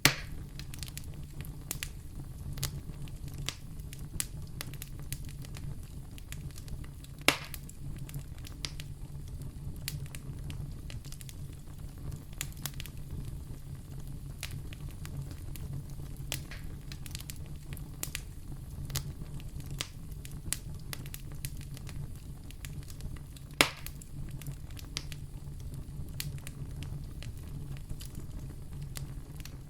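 Fire in a fireplace crackling: a steady low rumble under a constant run of small snaps, with three loud pops, one at the start, one about seven seconds in and one about two-thirds of the way through.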